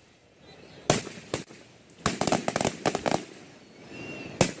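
Aerial fireworks going off: single sharp bangs about a second in and again near the end, with a rapid string of crackling pops between about two and three seconds in.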